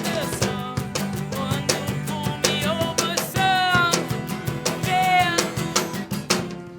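A live rock band playing, with a singer over guitar and drums. The music dies away near the end as the song finishes.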